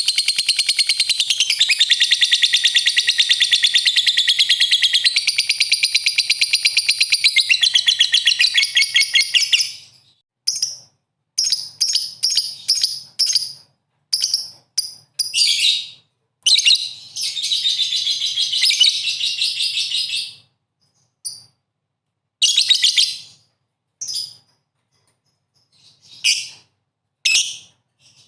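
Recorded songbird song: a loud, fast, high-pitched trilling chatter for about the first ten seconds, then short separate chirping phrases with silent gaps between them.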